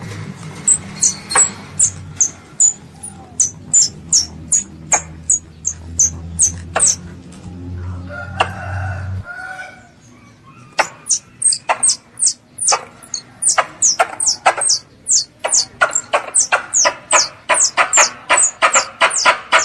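A young squirrel's call for its mother: a long series of short, high, sharp chirps, each dropping in pitch. The chirps come irregularly at first, then faster and stronger in the second half, about three a second near the end. A low hum runs under the first half and stops about nine seconds in.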